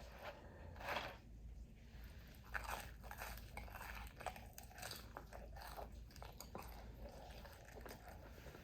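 A person chewing and crunching crispy fried food. It is faint, with irregular small crunches and clicks.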